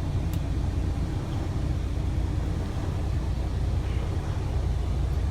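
Freightliner Cascadia semi truck's diesel engine idling with a steady low rumble. The idle surges slightly and is evening out.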